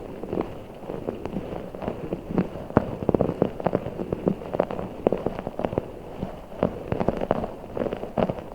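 Giant Orbeez water-bead ball being squished, giving a dense run of irregular soft pops and crackles, several a second.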